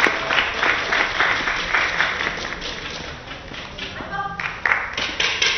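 Spectators clapping in the hall, the applause thinning out and fading, with a short pitched tone a little after four seconds in.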